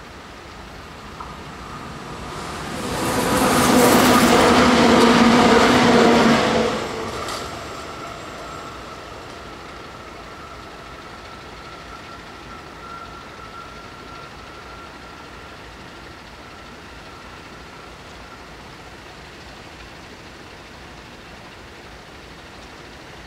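A train passing the closed level crossing at speed. It swells in over a couple of seconds, stays loud for about four seconds, then dies away quickly, leaving a faint steady whine for several seconds as it recedes.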